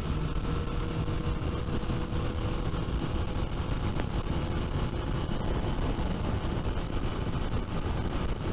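Suzuki GSX-R 1000 inline-four engine running at a steady cruise under heavy wind rush on the microphone.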